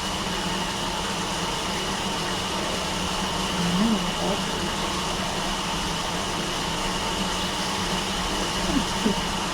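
Steady hiss and hum of room noise, like a fan or air-conditioning unit running, with a couple of brief faint squeaks about four and nine seconds in.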